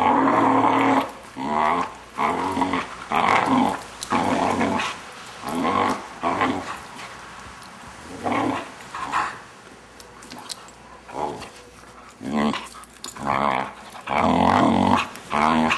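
Young Vizsla growling and grumbling in a string of short, pitched vocal bursts, with a longer burst at the start and another near the end.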